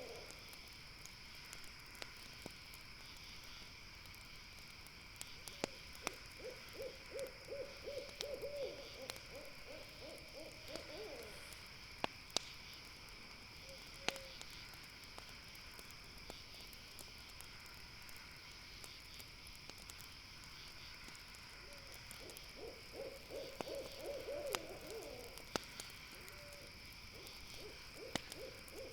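An owl calls in two runs of rapid repeated hoots, the first falling away at its end, with a shorter run near the end. Underneath runs a steady high-pitched trilling of night insects, and a few sharp pops come from a campfire.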